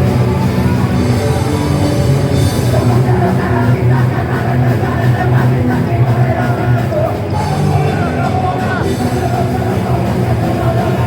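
Punk rock band playing loud and steady, with shouted vocals through the middle.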